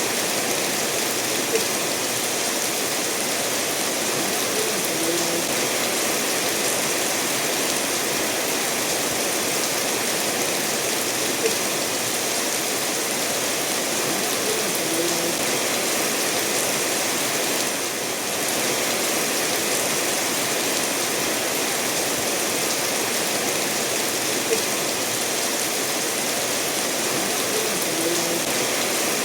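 Steady rain falling together with a stream running over stones: an even hiss of water, with a few brief drip-like ticks.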